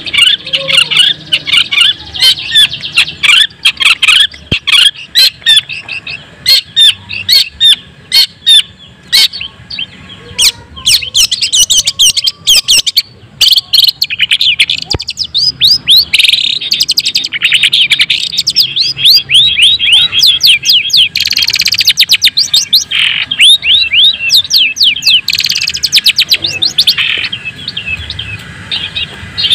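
Long-tailed shrike (cendet), a white-breasted bird, singing hard: a fast, unbroken stream of quick chirps and harsh notes, with many sharp clicking notes mixed in.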